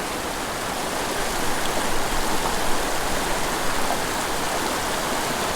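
Small, steep mountain creek rushing steadily, a constant even water noise.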